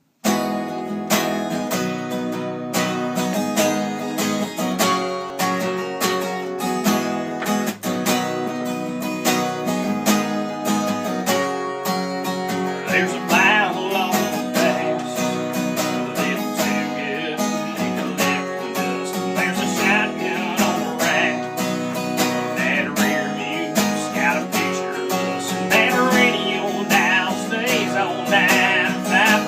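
Acoustic guitar strumming steadily, with a singing voice joining about halfway through.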